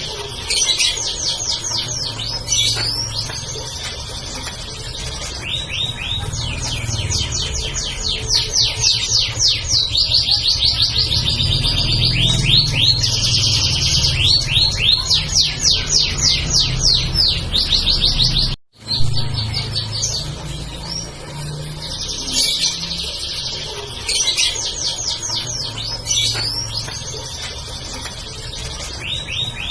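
Domestic canary singing a long, continuous song of fast trills and rapid rolling runs of repeated high notes, with a brief break in the sound about two thirds of the way through.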